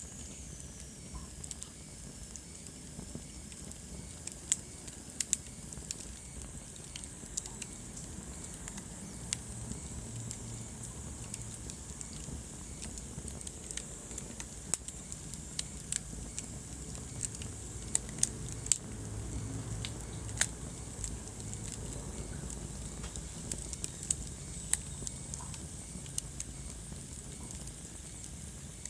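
Wood fire crackling in a fireplace: irregular sharp pops and snaps over a low, steady rush of burning.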